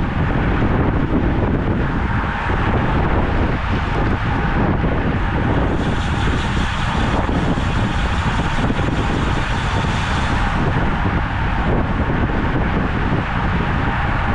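Steady wind rushing over the microphone with road noise while riding a road bicycle. It gets a little more hissy for a few seconds in the middle.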